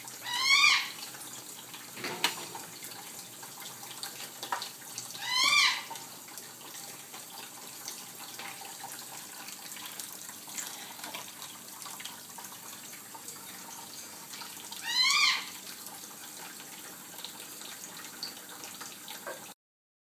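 A cockatoo gives three short calls, each rising then falling in pitch, spaced several seconds apart over a steady hiss. The audio cuts out shortly before the end.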